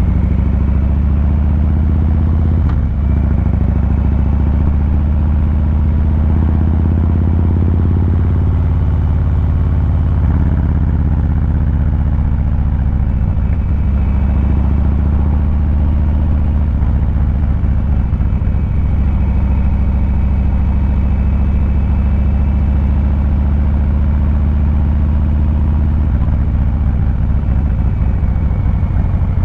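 2023 Harley-Davidson Fat Boy 114's Milwaukee-Eight 114 V-twin running through its exhaust, a deep steady note that holds mostly even in pitch with small changes in throttle.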